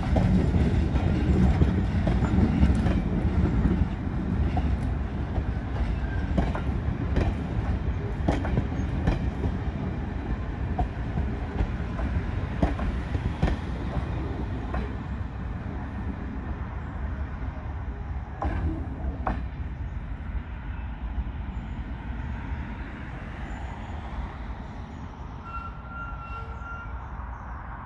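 Passenger coaches hauled by a Class 08 diesel shunter rolling past, wheels clicking over the rail joints over a low diesel rumble that fades steadily as the train draws away. A brief high tone sounds near the end.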